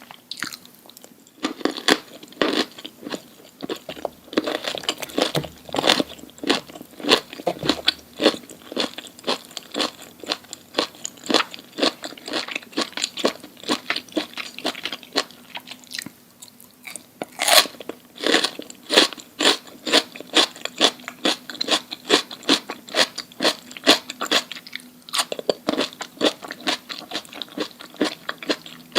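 Close-miked chewing of crunchy food, a mukbang eater biting and crunching several times a second with short pauses between mouthfuls. One sharp, loud crunch about seventeen seconds in.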